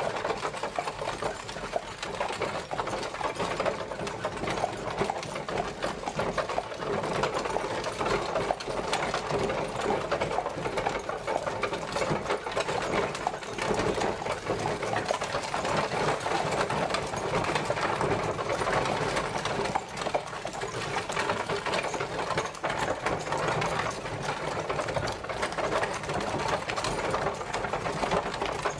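Horse-drawn carriage travelling: a steady, rapid clatter and rattle of the moving carriage.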